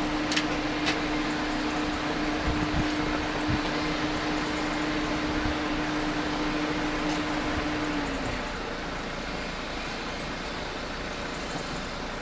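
A steady mechanical hum at one pitch, over road traffic noise; the hum sags slightly and stops about eight seconds in.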